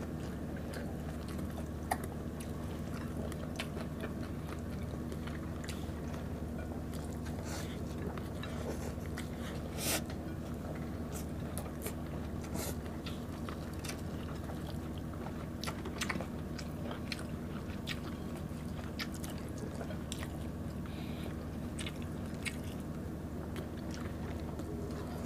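Close-miked chewing and biting of a meal of fried milkfish, banana-blossom salad and rice, with many short crunches and clicks, the loudest about ten and sixteen seconds in, over a steady low hum.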